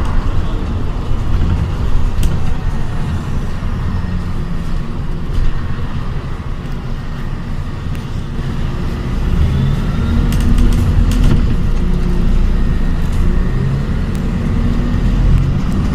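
Inside an ADL Enviro 400 hybrid double-decker bus on the move: a steady low rumble with scattered rattles, growing louder about nine seconds in, when a faint rising whine comes in.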